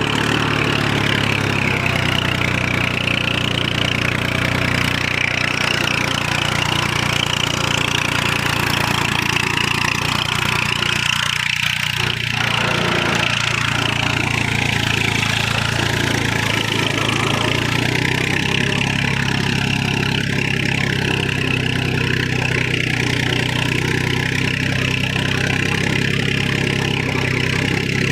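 Tractor engine running steadily at an even speed, as when pulling a cultivator to till a field.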